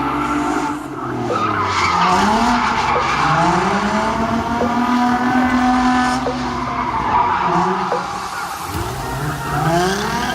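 Car engine revving hard while drifting, its pitch climbing, holding high, dropping and climbing again, with tyres squealing and skidding on the pavement.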